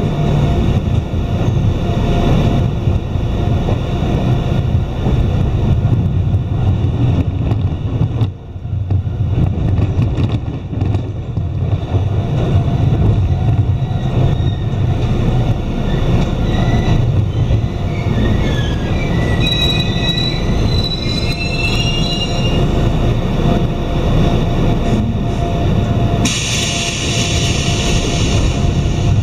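Iyotetsu Takahama Line electric train heard from inside the car: steady running rumble of wheels on rail, with a warbling high squeal about two-thirds of the way through as it slows. Near the end a short burst of hissing air.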